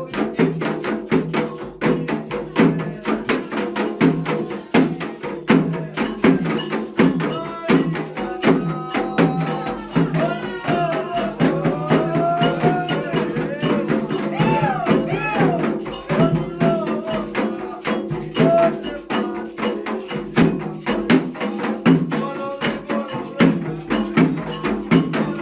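Candomblé ritual drumming: fast, continuous strokes on atabaque hand drums with a bright struck percussion part. Voices sing a chant over the drums in the middle stretch.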